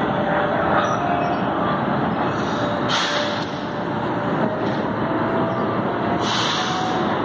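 Electric commuter train at a station platform, a steady running rumble with faint whistling tones as it comes to rest. Short hisses sound about two and three seconds in and again near six seconds.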